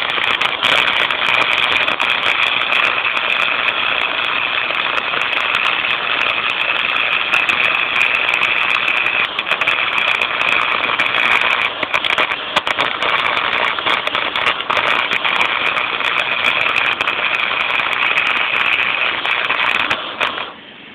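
Chicago Electric 90-amp flux-core wire welder arc crackling steadily through one long continuous weld of about twenty seconds, stopping abruptly near the end.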